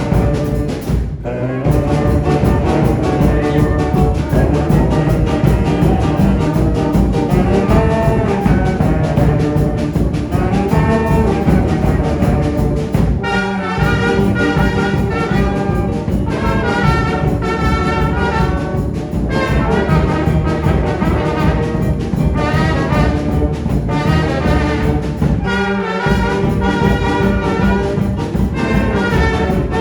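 Children's brass band playing a tune, the music pausing briefly between phrases three times.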